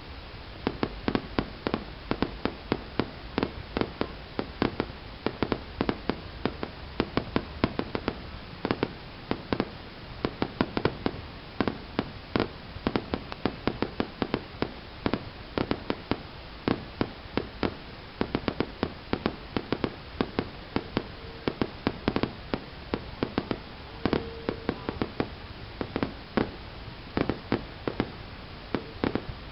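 Fireworks going off: a continuous, irregular run of sharp bangs, several a second, over a low rumble.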